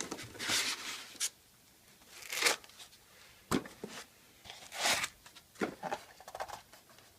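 Packaging around a DVR unit being handled and pulled off, rustling and crinkling in about seven short bursts with quiet gaps between.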